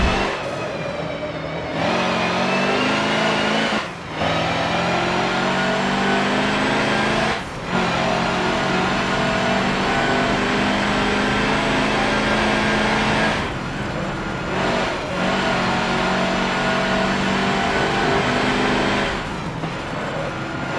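Mercedes-Benz racing truck's diesel engine pulling hard under acceleration. Its pitch climbs slowly, broken by brief dips at each of several gear changes.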